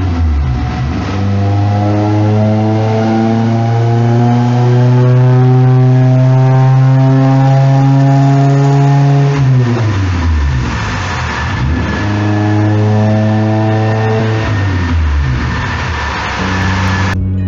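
Honda F20B four-cylinder engine of a 1992 Prelude running hard on a chassis dyno during tuning, heard through its open exhaust. It holds a steady high engine note for several seconds, drops in pitch about ten seconds in, settles steady again, and drops once more near the end.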